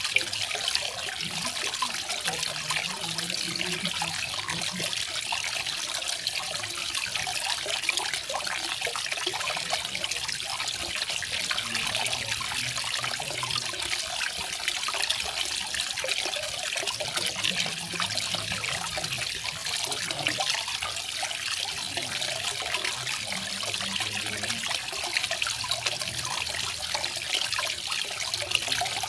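Garden waterfall: water falling and splashing into a pool in a steady, continuous trickle.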